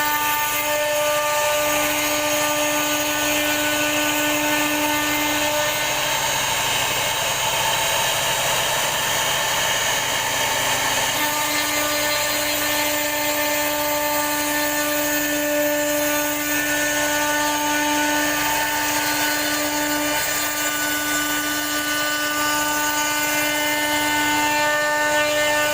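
CNC router spindle running steadily and cutting into a wooden door panel: a constant whine over the rushing noise of the bit in the wood, the lowest tone of the whine dropping out briefly near the middle.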